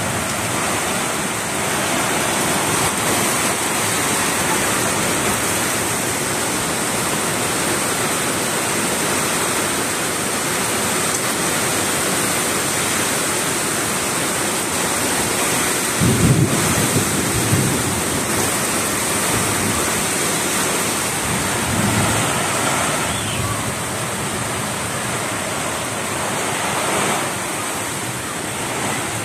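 Heavy rain pouring down steadily in a thunderstorm. Low rumbles break through about halfway in and again a few seconds later.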